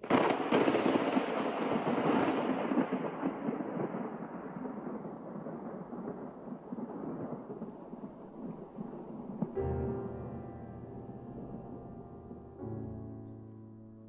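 A clap of thunder breaks out of silence and rolls on, fading slowly over about nine seconds. A piano then sounds a low chord, and another about three seconds later.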